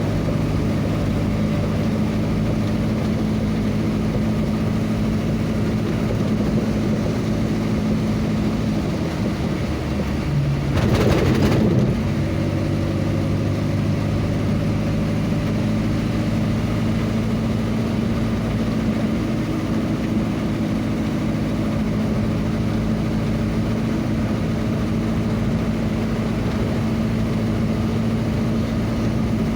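Vehicle engine running steadily on the road, a low even hum, with a brief louder rushing noise about eleven seconds in.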